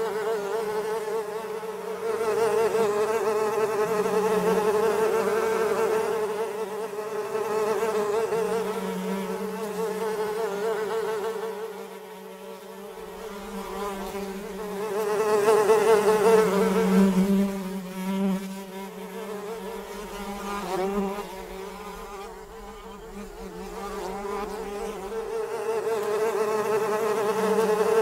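Flies buzzing in flight, a wavering droning hum that swells and fades several times, loudest a little past the middle.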